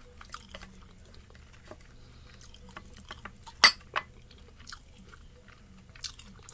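Close-up chewing and mouth sounds of someone eating, with scattered small clicks. A little past halfway, a sharp click of wooden chopsticks against a dish is the loudest sound, with a smaller click just after it.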